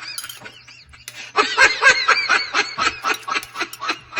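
A person laughing: a run of quick pulses that starts about a second and a half in and tapers off.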